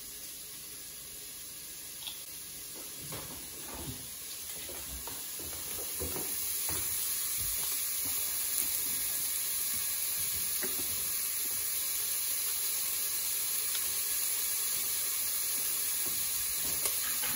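Chopped onion and shallot sizzling in hot oil in a stainless steel saucepan, sweating off, with a few light utensil knocks. The sizzle grows louder about six seconds in.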